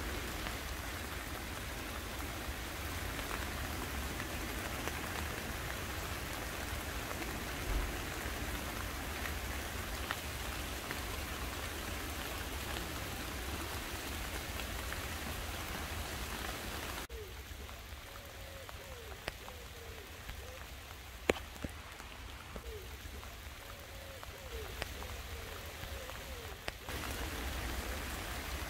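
Steady rain falling on garden leaves and plants, an even hiss with scattered ticks of single drops. It turns quieter for about ten seconds in the middle.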